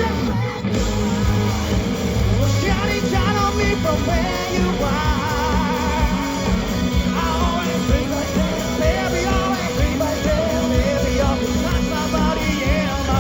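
Live pop-rock band music with singing, heard from the audience.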